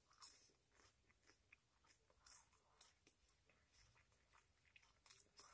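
Near silence with faint chewing: a person quietly eating a breaded chicken nugget, with a few soft mouth clicks.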